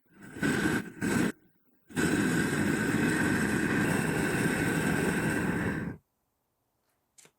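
Gas burner of a homemade foundry furnace firing with a steady rushing noise, heard in short chopped pieces at first, then steadily for about four seconds before cutting off abruptly about six seconds in.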